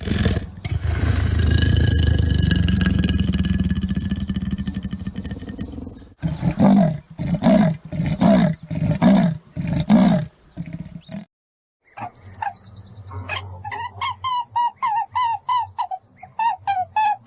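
Lion roaring: one long, rough roar of about six seconds, then five grunts in an even rhythm. After a short gap, near the end, another animal gives a quick series of short, repeated higher-pitched calls.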